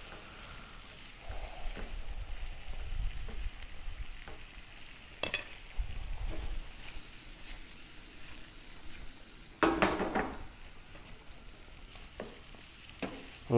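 Shrimp sizzling in melted butter in a nonstick frying pan while a wooden spatula stirs and turns them. Low handling bumps come in patches, with a sharp click about five seconds in and a louder short burst near ten seconds.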